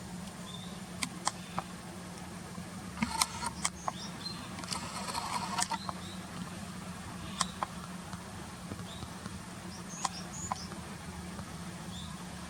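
Small birds giving a few short, high chirps, with scattered sharp ticks and a busier patch of ticking and rustle a few seconds in.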